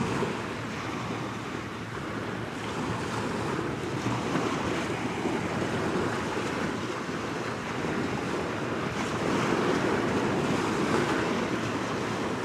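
Wind on the microphone over waves washing on the shore: a steady rushing noise that swells slightly about nine seconds in.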